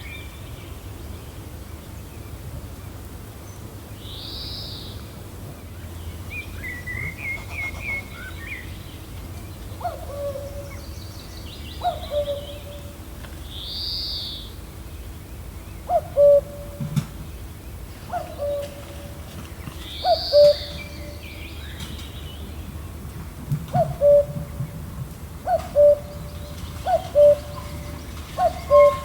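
Birds calling over a steady gentle wind. From about a third of the way in, a short low call repeats every second or two and grows more frequent toward the end. Now and then a high arching call and a brief run of chirps sound over it.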